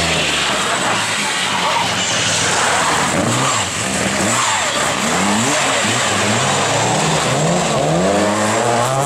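Rally car engine revving hard: its pitch climbs and drops back several times as it shifts through the gears, over loud tyre and road noise.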